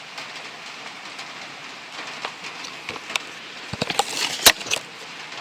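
A few knocks, then a short cluster of clattering knocks about four seconds in, from a sawn board being handled for measuring, over a steady hiss.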